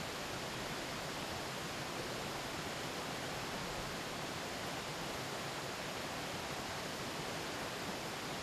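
Mountain river flowing over rocks, a steady even rush of water with no breaks.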